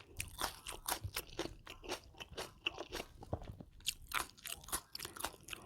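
Close-miked eating: a mouth chewing crunchy food, a quick, uneven run of crisp crunches several times a second.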